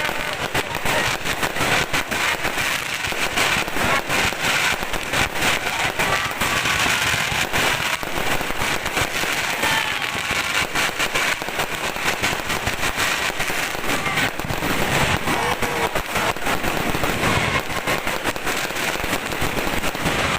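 Fireworks going off without pause: dense, overlapping bangs and crackles.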